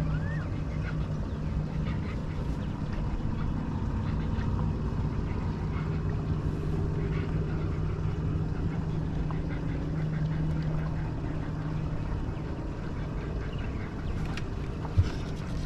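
Boat motor running with a steady low hum under a rumbling wash, with a single sharp click near the end.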